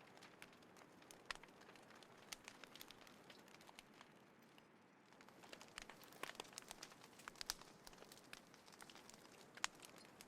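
Small wood fire crackling: irregular snaps and pops over a faint hiss, sparser for a moment in the middle, busier after about six seconds, with one sharper pop near the end.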